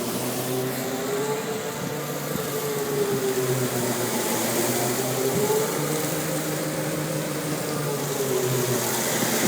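A 2004 Isuzu AVGAS refueler running with its PTO-driven fuel pump engaged, recirculating fuel into the tank: a steady mechanical hum with a whine that slowly wavers in pitch, over a steady hiss.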